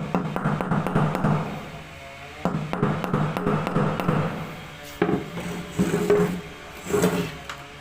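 Hammer tapping on metal in quick runs of strokes, with a ringing note: two longer runs, then three short bursts.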